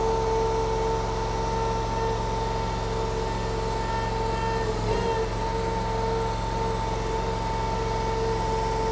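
Stand-on mini skid steer running steadily with its boom and bucket being worked hydraulically; a steady whine sits over the engine hum.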